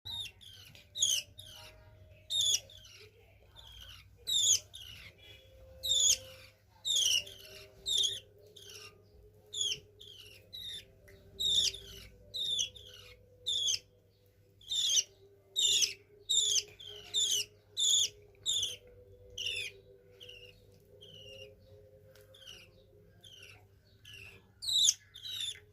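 Budgies chirping: short, sharp, high calls repeated about once or twice a second, over a faint steady hum.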